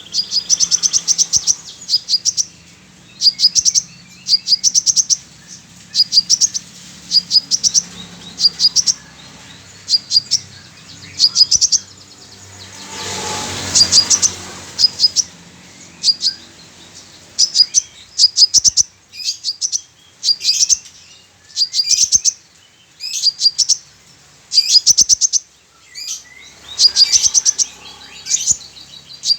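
A sunbird (kolibri dacok) singing: short, high, rapid chirping phrases repeated about once every one to two seconds, its song filled in with the call of a female kolibri manggar. A brief rushing noise swells and fades about 13 seconds in.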